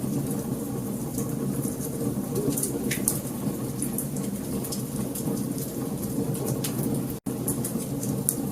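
Wood fire burning in a fireplace: frequent sharp crackles and pops of burning logs over a steady low rush of flame. The sound drops out completely for a split second about seven seconds in.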